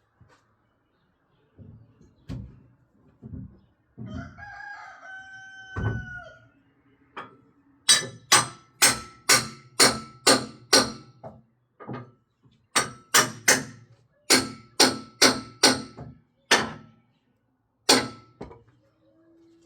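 A rooster crowing once, a drawn-out call that falls at the end. About four seconds later comes a long run of sharp knocks, about two a second with a couple of short pauses, each with a brief ring; these knocks are the loudest sound.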